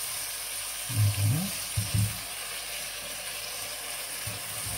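Diced potatoes and vegetables sizzling gently in sunflower oil in a pot while being stirred with a silicone spatula. Two brief low sounds stand out, about one and two seconds in.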